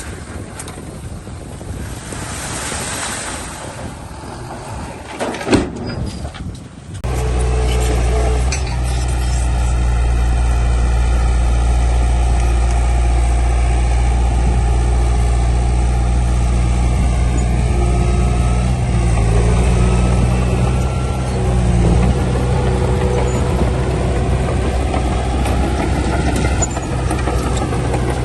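A heavy diesel engine of earthmoving machinery runs loud and steady. It cuts in abruptly about seven seconds in, after a stretch of hissing noise with a sharp knock.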